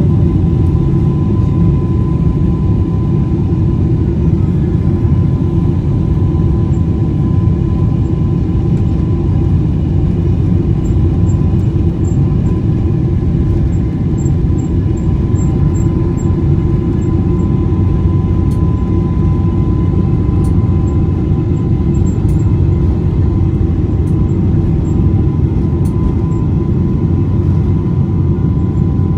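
Passenger jet cabin noise: a steady, loud rumble of engines and airflow with a thin steady whine over it, heard from inside the cabin.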